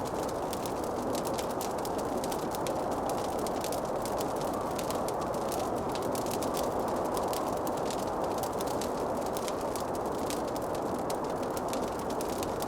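Wood fire crackling with a dense run of small sharp pops and snaps, over a steady low rushing hiss.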